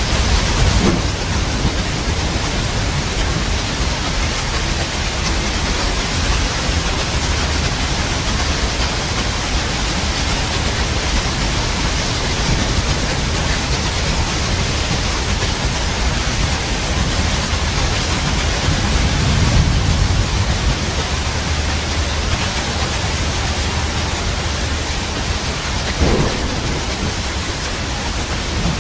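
Steady heavy rain with rolling thunder: a low rumble swells about two-thirds of the way through, and a short sharp crack comes near the end.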